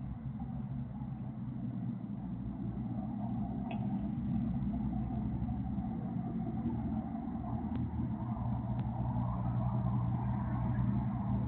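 Pickup truck engine with no muffler running with a deep, steady exhaust note that gradually gets louder.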